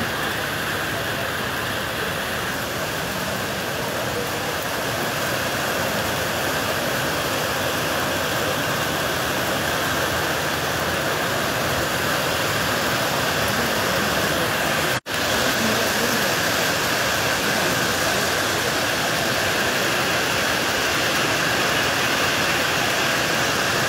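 Heavy rain pouring down, a steady even hiss that cuts out for an instant about fifteen seconds in.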